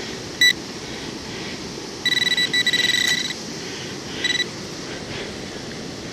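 Metal detector signalling a target with a high, steady electronic beep: one short beep, then a broken beep lasting over a second, then another short beep, over steady wind noise.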